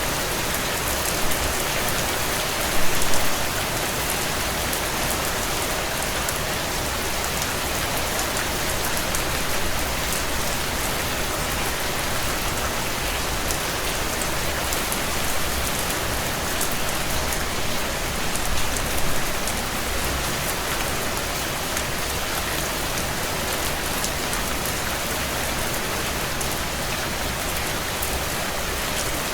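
Heavy rain drumming steadily on a tin roof, a dense, even patter of drops. There are brief louder swells about three seconds in and again around nineteen seconds.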